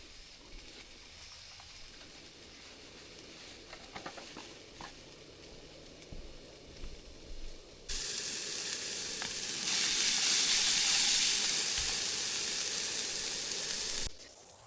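Quiet at first with a few small clicks, then a loud sizzling hiss starts suddenly about halfway through, grows louder, and cuts off abruptly near the end.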